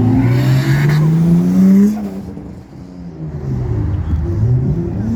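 A car engine accelerating, its note rising steadily for about two seconds, then dropping away sharply. A lower engine note climbs again near the end.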